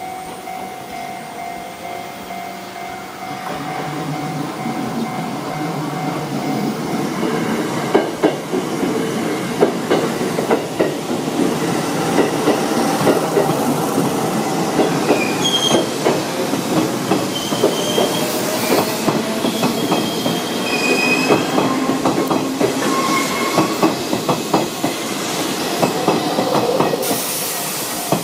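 A Sanyo Electric Railway commuter train and a Hanshin 8000-series train (set 8523) passing on curved track. The wheels clack over the rail joints, with brief high wheel squeals on the curve in the middle part.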